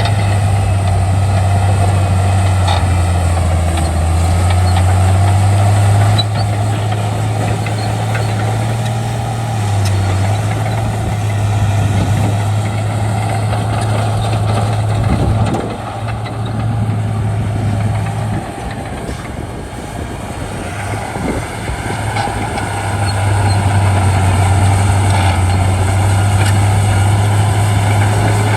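Shantui D95 bulldozer's diesel engine running steadily with a deep hum. It eases off about halfway through and works harder again near the end.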